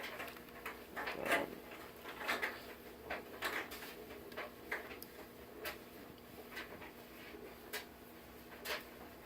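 Light clicks and small knocks of a plastic scale model truck being handled and turned, coming at irregular intervals.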